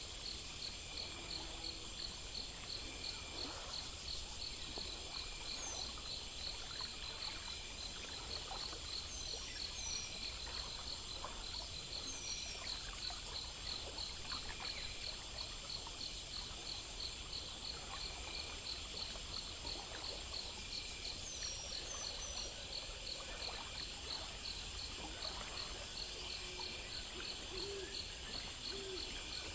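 Night chorus of crickets and other insects chirping in fast, even pulses at several high pitches, with a few brief higher chirps now and then over a low steady rumble.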